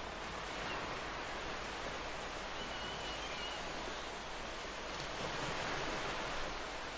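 Ocean surf washing onto a beach, a steady rush of breaking waves that swells slightly near the end.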